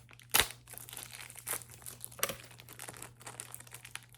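Plastic wrapping crinkling as it is handled, in irregular crackles, with one louder sharp crack about half a second in.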